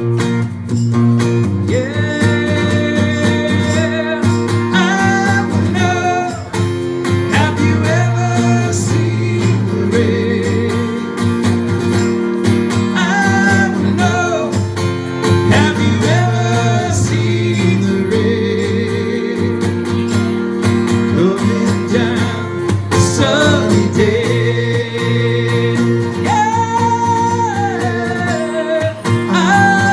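Acoustic country-style band music: strummed acoustic guitar with a singing voice and steady percussion hits.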